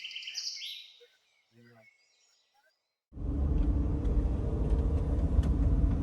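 Songbird chirping for about the first second, then a near-silent gap. About three seconds in, a loud, steady low rumble starts suddenly and carries on.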